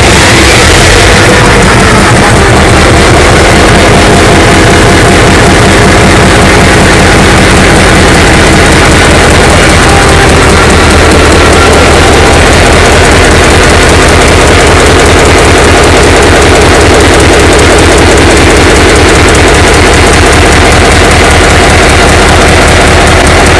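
A large, powerful engine running steadily and very loudly, with a fast, even rattle of firing beats.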